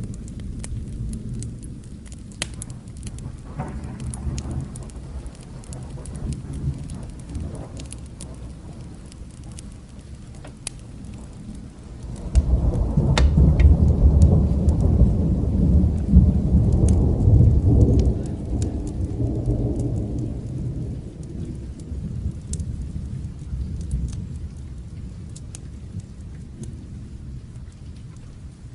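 Steady rain with a rolling thunder rumble that breaks in about halfway through, runs loud and deep for several seconds, then slowly dies away. Scattered sharp crackles pop over the rain throughout.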